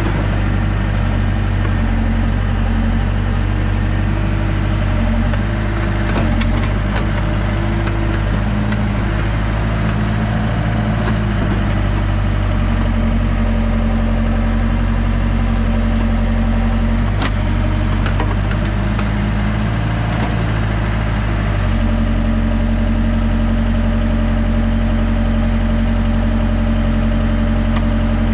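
Heavy equipment engine running steadily, its note shifting a few times, with a few sharp knocks, the clearest about 17 seconds in.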